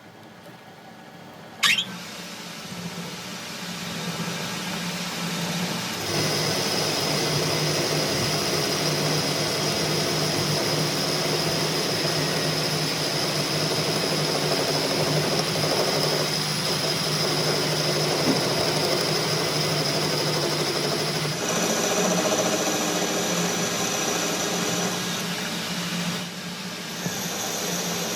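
A machine running steadily, starting after a sharp click about two seconds in, with a steady low hum and a high whine, and changing pitch about three-quarters of the way through.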